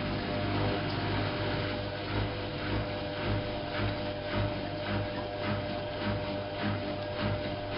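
Whirlpool AWO 5346 washing machine running, its motor giving a steady hum. From about two seconds in, a rhythmic pulse comes about twice a second as the drum turns.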